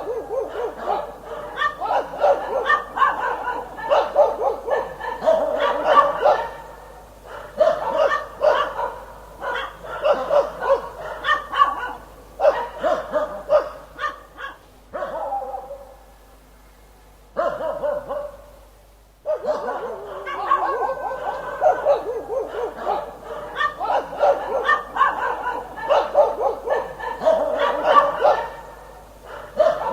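Dog barking repeatedly in rapid bursts of short barks. The barking dies down to a lull of a few seconds a little past halfway, then starts up again.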